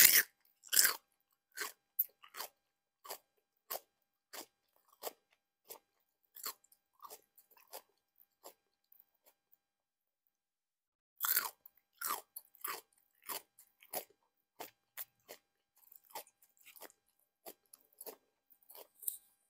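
A person biting into and chewing crisp, brine-pickled Korean radish cubes close to the microphone. It opens with a loud crunchy bite, then a run of crisp crunches about every half second. After a short pause about halfway, another loud bite starts a second round of crunchy chewing.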